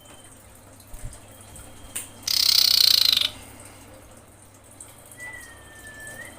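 Female common iora calling: a loud harsh hiss lasting about a second, then near the end a thin drawn-out whistle that dips slightly and turns up at its close.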